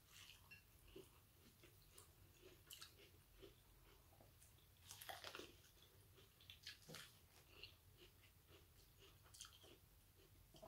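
Mouth chewing and biting into corn on the cob, heard as soft, irregular crunches and small clicks. The loudest crunch comes about halfway through.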